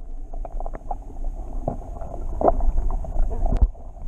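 Low rumble of wind and handling noise on the camera microphone, with scattered small knocks, rustles and splashes.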